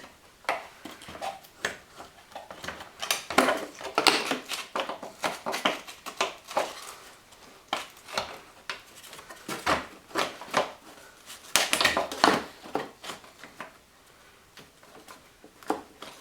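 Irregular clicks, knocks and rattles of plastic and metal parts being handled and fitted back together while reassembling a car's windshield wiper linkage.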